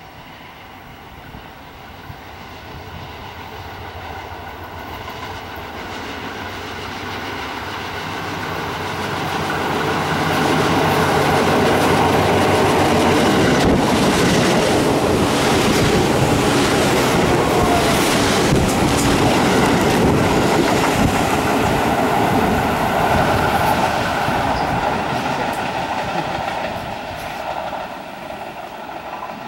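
Tobu 8000-series electric train approaching and passing close by without stopping, its wheels clacking over the rail joints. The sound builds up over the first ten seconds, stays loud through the middle, and fades near the end.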